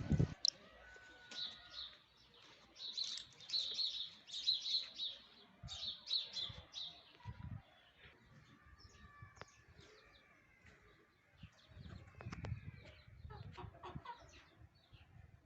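A mix of birds chirping and calling, in quick clusters of sharp high chirps that are densest in the first half, with a few lower calls later on.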